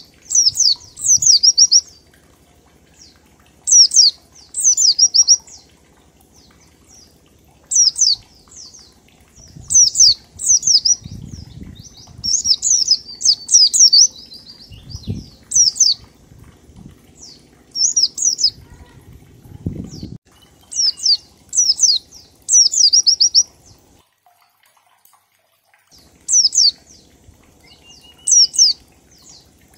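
White-eye (pleci) singing its 'ngalas' song: clusters of one to four quick, high, downward-sweeping notes, each cluster a second or two after the last. Faint low rumbling sits under the song in the middle.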